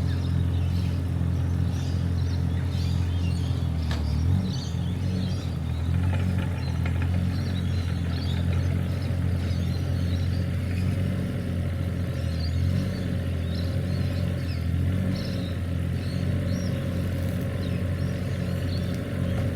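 An engine running steadily at low revs, its note shifting once about four seconds in, with birds chirping over it.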